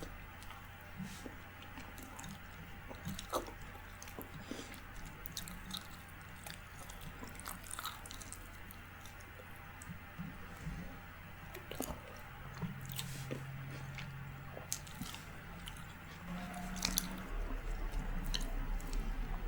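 Close-miked chewing of soft rice and curry: wet, squishy mouth sounds with scattered small clicks, over a faint steady low hum.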